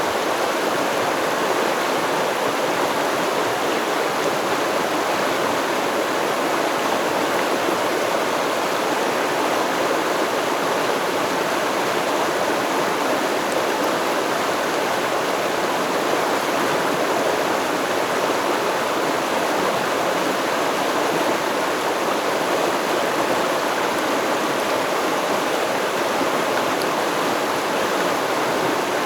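Stream water rushing and babbling over rocks, a steady, even flow.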